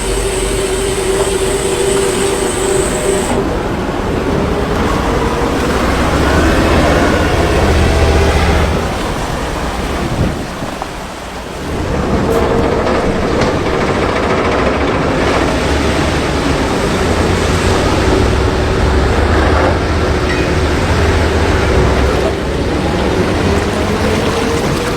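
An engine runs steadily under heavy rushing noise, its pitch drifting and rising slightly near the end, with a short lull about ten seconds in.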